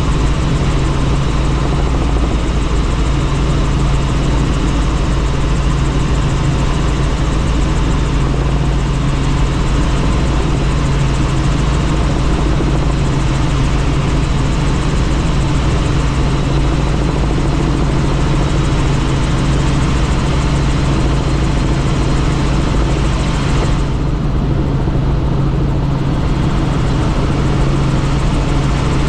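Helicopter in flight heard from on board: a steady engine and rotor drone with a strong low hum and an even hiss, the hiss easing briefly near the end.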